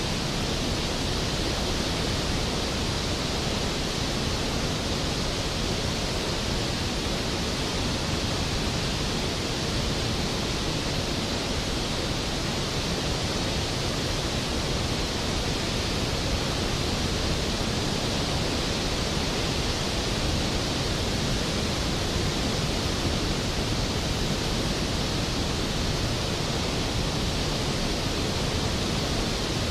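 Skógafoss waterfall: a large fall of water crashing into its plunge pool, a steady, full roar of noise with no breaks or changes.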